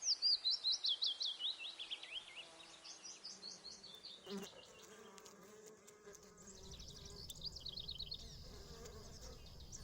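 Meadow ambience: rapid runs of short, high chirps, the loudest falling in pitch over the first two seconds, then quieter runs. A low insect buzz comes in about six seconds in.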